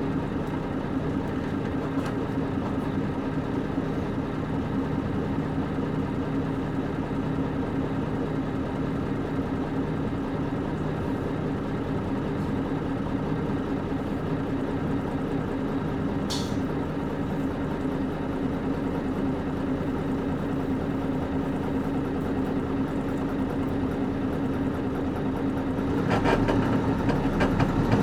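Nissan Diesel KC-UA460LSN bus's PG6 diesel engine idling steadily, heard from inside the cabin. There is a brief high click about halfway through. Near the end the engine and road noise grow louder.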